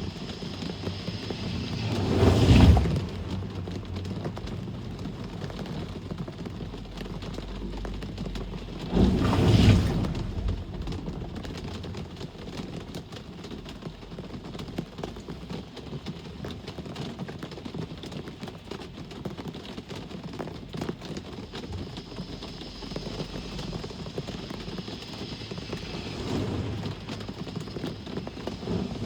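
Steady rain with vehicles passing on a wet road: two loud pass-bys that swell and fade, about two and nine seconds in, and a fainter one near the end.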